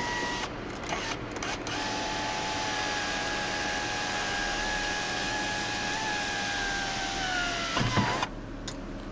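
Hummer H2 power sunroof motor whining steadily for about six seconds as the sunroof slides, its pitch sagging slightly just before it stops with a short clunk. A few light clicks come before the whine starts.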